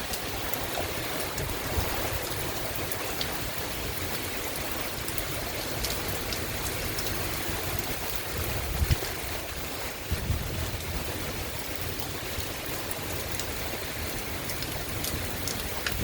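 Heavy thunderstorm rain falling steadily: a constant hiss with scattered ticks of drops, and a couple of brief low rumbles around the middle.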